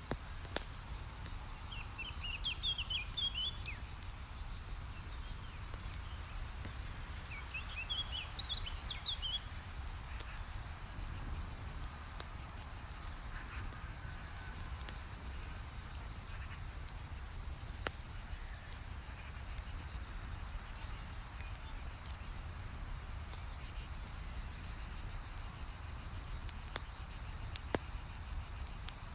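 Campfire crackling with a few sharp, scattered pops, over a steady high chirring of insects. A bird gives two short twittering phrases in the first ten seconds.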